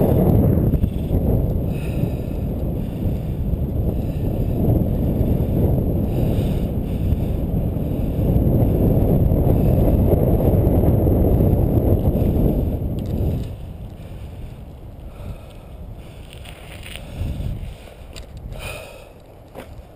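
Wind buffeting the microphone during a bicycle ride, a loud low rumble that drops away about two-thirds of the way through, leaving a quieter hiss with a few faint rattles near the end.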